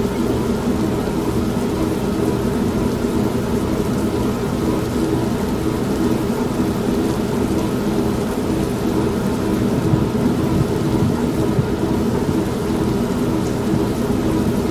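Steady rain and thunder mixed over the steady hum of an old washing machine running, with a slight swell about ten seconds in.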